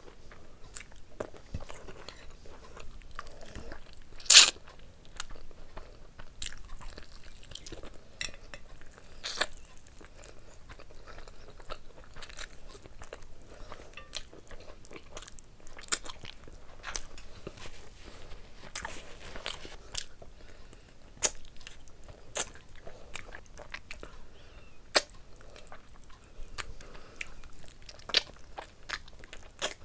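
Close-miked eating sounds of a person eating rice and curry by hand: chewing, wet mouth smacks and sharp clicks, with fingers working the food on a glass plate. One click about four seconds in is much louder than the rest.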